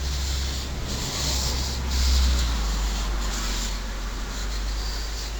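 Paper towel rubbing and wiping over small metal carburetor parts, a scratchy hiss that comes and goes in short strokes, over a steady low rumble.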